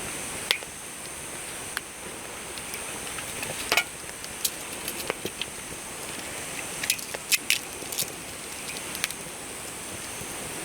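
Wood campfire crackling: a steady hiss with irregular sharp pops and snaps, a cluster of louder ones near the middle.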